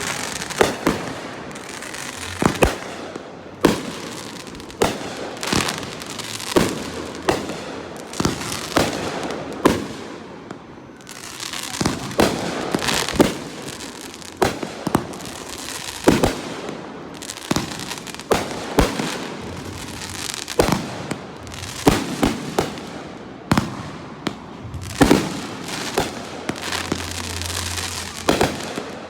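Aerial fireworks display, with shells bursting one after another in an irregular barrage of sharp bangs, and crackling and sparkle between them.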